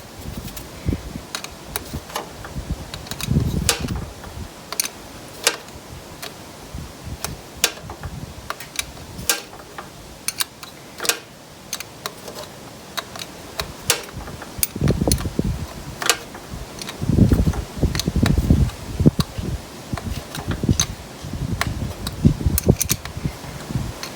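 Scattered small clicks and taps of wires, connectors and hand tools being handled, with a few bursts of low rumble.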